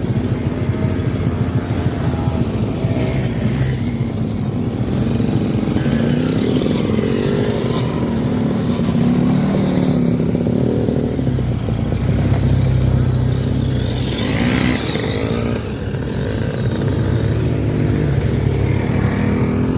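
Several classic motorcycles and Vespa scooters riding uphill together, their small engines running and revving at shifting pitches, with one passing close and louder about three-quarters of the way through.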